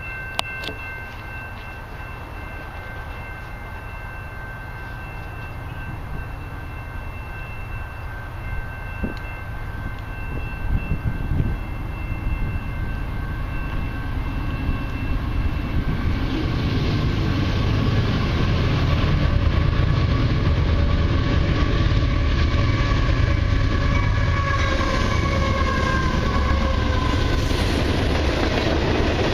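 Diesel-led freight train approaching, its low rumble growing louder from about halfway in. A chord of steady tones from the locomotive horn sounds through the first half, and a horn chord returns near the end, bending slightly down in pitch as the locomotives go by.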